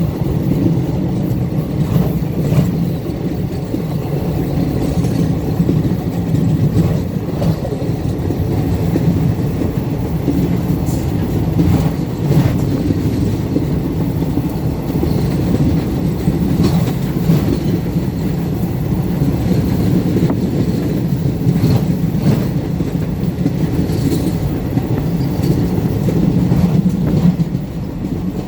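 Train wheels running on the rails of a railway bridge: a steady low rumble with occasional sharp clacks.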